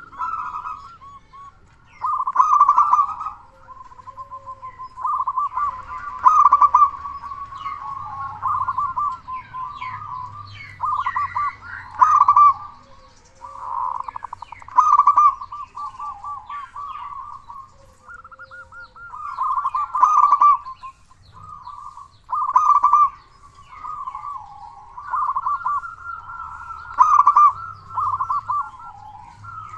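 Zebra dove (perkutut) calling loudly and without pause: phrase after phrase of rapid, stuttering, rolling coos, one every second or two, with faint higher chirps between them.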